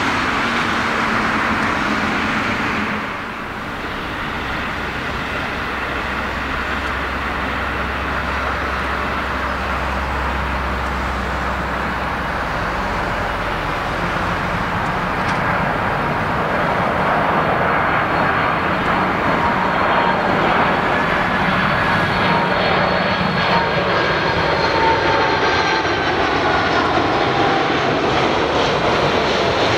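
Jet airliner on landing approach, its engines running as a steady roar that builds in the second half, with a whine that glides down in pitch as the aircraft passes.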